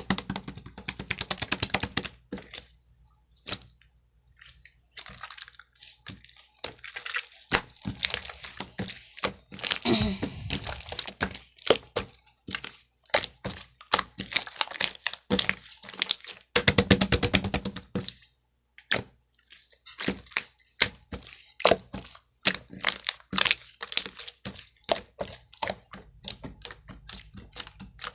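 Dense, irregular clicking, tapping and crackling, coming in bursts with short pauses between them.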